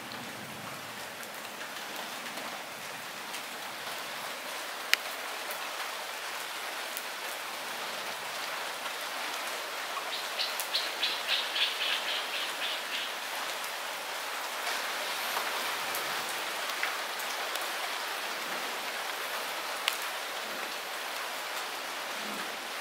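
Light rain falling steadily on foliage and the ground, a soft even hiss with scattered sharper drips. A brief run of rapid pulses rises above the rain about ten seconds in.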